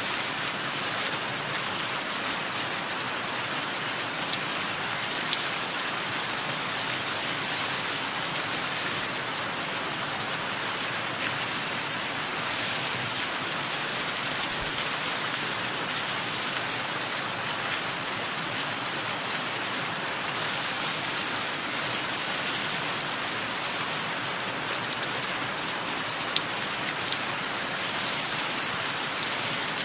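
Steady rain falling, with short high bird chirps over it throughout, some coming in quick runs of several notes.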